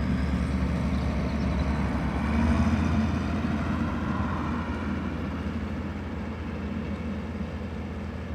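Two big Ford tractors' diesel engines pulling ploughs under steady load. The sound is loudest about two seconds in and then fades slowly as they move away.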